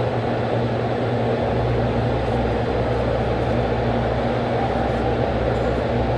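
A steady mechanical drone: a low hum under a constant rush of noise, unchanging throughout.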